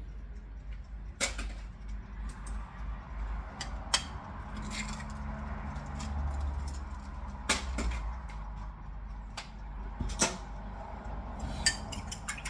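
Kitchen handling sounds: a few sharp clinks and knocks of utensils and cookware, spaced a few seconds apart, over a steady low hum.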